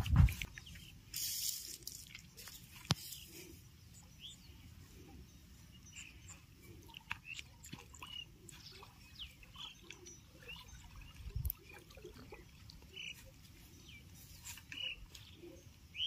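Quiet outdoor ambience with scattered short bird chirps throughout, plus a brief rustle and a single sharp click within the first three seconds.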